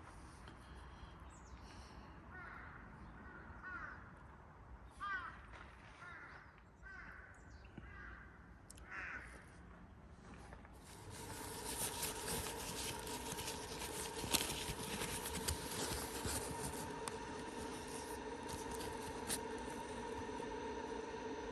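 A crow cawing several times in a row. About halfway through, a louder steady hum with a hiss sets in and carries on.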